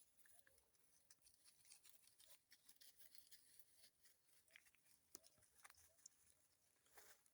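Near silence: faint scattered crackles and clicks.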